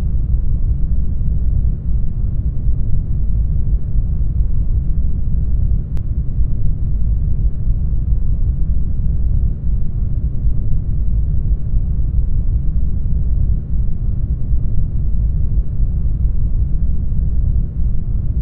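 Steady brown noise: a deep, even rush weighted to the low end, with little treble.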